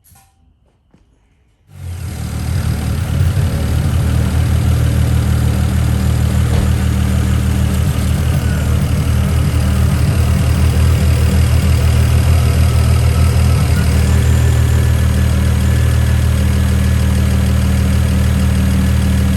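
BMW E92's engine starting up about two seconds in and settling into a steady idle, its first run after the inlets were reinstalled.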